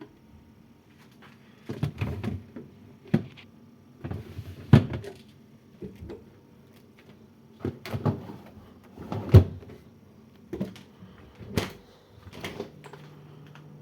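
Refrigerator doors, drawers and shelves being opened, closed and handled: a series of irregular plastic-and-metal clunks and knocks.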